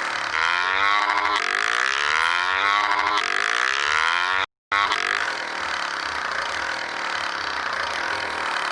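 Motorcycle engine accelerating through the gears, its pitch rising and falling back with each shift. The sound cuts out briefly about halfway, then the engine runs at a steadier speed.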